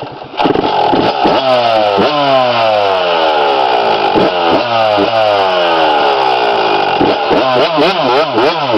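Dirt bike engine revving hard, its pitch repeatedly falling and then jumping back up as the throttle is rolled off and opened again, with quick up-and-down revs near the end.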